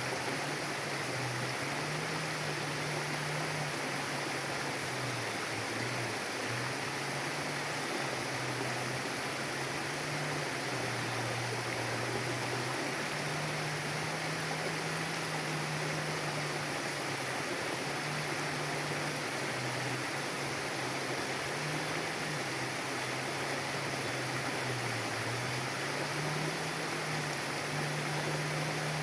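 Mountain river flowing: a steady, even rush of water. Underneath it a low hum steps back and forth between two pitches every few seconds.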